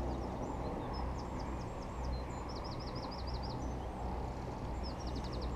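A small songbird singing high, quick runs of repeated notes, twice, over a steady low outdoor background noise.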